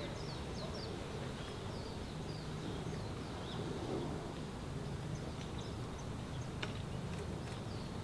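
Small wild birds calling: a run of short, quickly falling high chirps in the first second or so, then fainter calls, and a few sharp ticks later on, over a steady low outdoor rumble.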